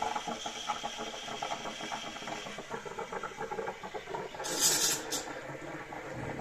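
Coffee machine steam wand frothing milk in a jug: a steady hiss with fast spluttering and gurgling, and a louder burst of hiss about four and a half seconds in.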